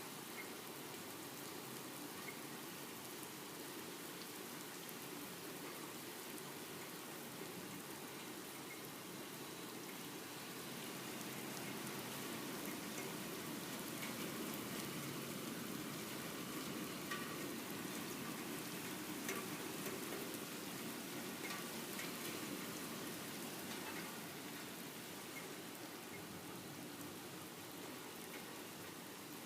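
Steady rain falling, an even hiss with scattered ticks of drops striking a surface, swelling a little in the middle and easing off again toward the end.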